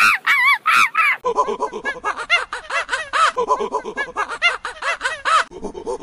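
A group of animals calling: many short, arched calls in rapid succession. The calls are high-pitched at first, then, after about a second, become a lower chorus of overlapping calls.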